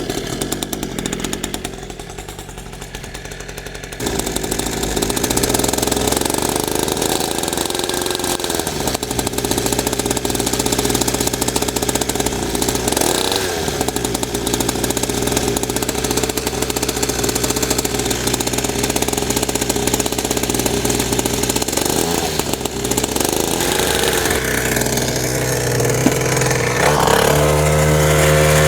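Small 49cc two-stroke engine of a Chinese mini dirt bike running as it warms up, the revs rising and falling. It gets louder about four seconds in and again near the end.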